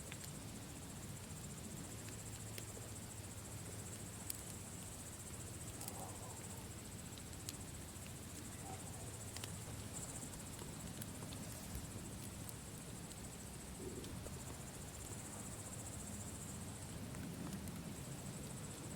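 Campfire burning with a low steady rumble and scattered sharp crackles and pops, under a steady high chirring of crickets.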